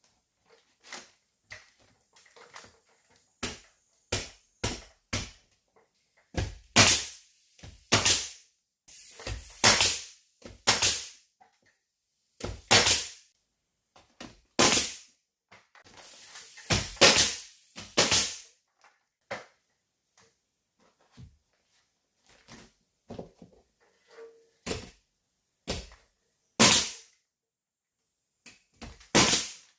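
Wooden furring strips being nailed up for a ceiling frame: a long string of sharp, irregular knocks, some single and some in quick pairs, several with a brief hiss after them.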